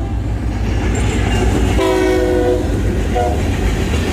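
Freight locomotive horn giving a horn salute: one held several-note chord about two seconds in, then a brief toot a moment later. Under it runs the steady rumble and rail clatter of a passing freight train.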